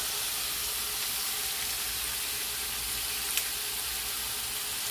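Chopped beef tripe frying in hot oil with onion and spice paste in a pan: a steady sizzling hiss, with one brief click about three and a half seconds in.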